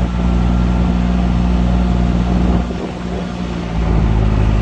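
Engine of a small ride-on site vehicle running steadily while being driven, easing off for about a second just past the middle and then picking back up.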